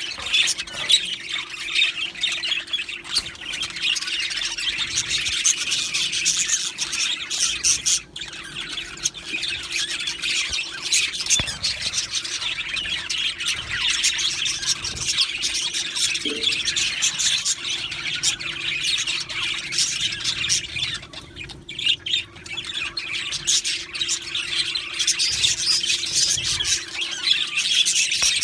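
A flock of budgerigars chattering, chirping and squawking continuously in a dense, overlapping mass of calls.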